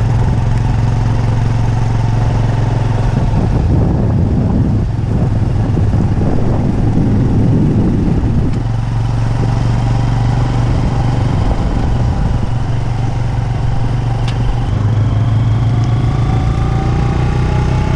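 A motor vehicle's engine running steadily close by, with a rougher, noisier stretch for a few seconds in the first half.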